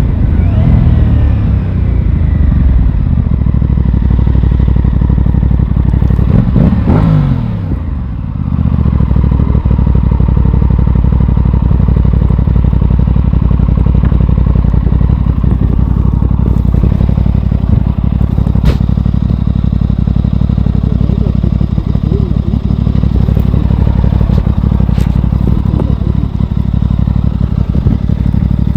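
Aprilia Tuono 660's parallel-twin engine: engine speed falls at first, rises and drops again about seven seconds in, then holds a steady speed for the rest of the time.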